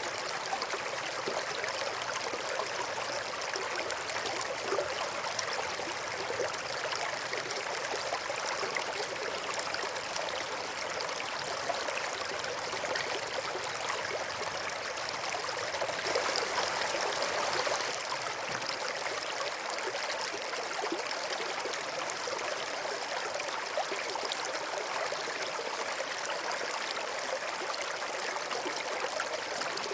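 Small stream running over stones, a steady babbling trickle of flowing water, briefly a little louder a bit past the middle.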